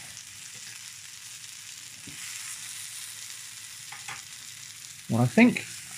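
Slices of set asaro, a Nigerian yam porridge with fish, shallow-frying in hot oil in a non-stick pan: a steady, even sizzle.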